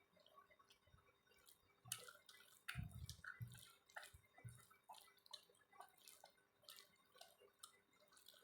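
Quiet eating sounds from a meal of rice, dal and omelette: a string of small wet clicks and smacks of chewing, with a few soft low thuds about three seconds in.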